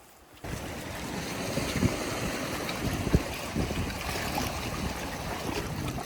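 Rushing noise of sea surf and wind on the microphone, starting abruptly about half a second in, with a few low thumps.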